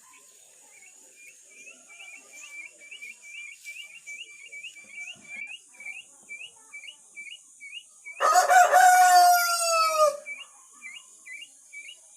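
Village rooster crowing once, a loud call of about two seconds that sags in pitch at the end, about eight seconds in. Behind it runs a steady series of short high chirps, about three a second.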